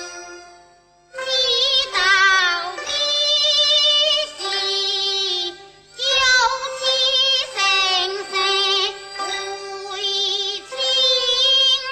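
High female voice singing a Teochew opera aria in phrases of a second or two with wavering vibrato, over a sustained instrumental accompaniment. The singing begins about a second in, after a brief lull.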